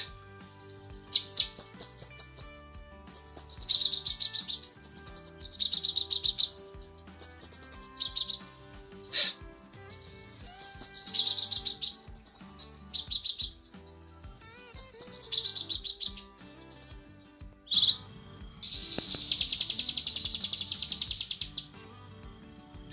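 Cucak kinoi singing: bursts of fast, high, rapidly repeated notes about a second long, with a longer, denser trill near the end. It is given as a female's call to a male.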